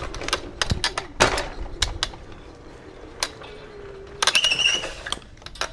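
Bird rental electric scooter ridden hard over rough ground: a faint motor whine under a string of clattering knocks and rattles. The loudest knock comes about a second in, and a dense squeaky rattle a little past four seconds.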